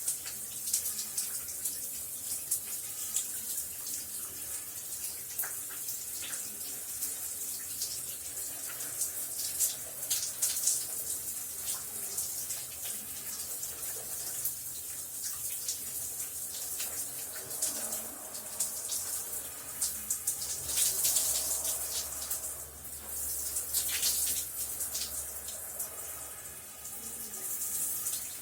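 Shower running: a steady hiss of spraying water with uneven splashes.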